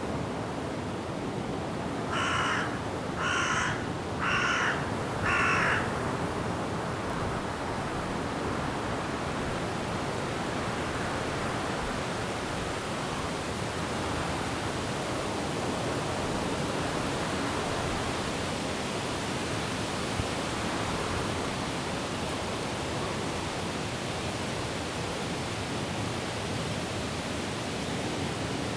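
Steady rush of wind and rain in forest trees, with a bird giving four harsh calls about a second apart near the start.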